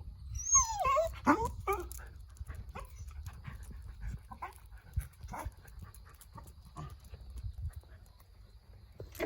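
A dog whining: one high whine that falls steeply in pitch about half a second in, followed by a few short whimpers, then light scattered clicks and rustles.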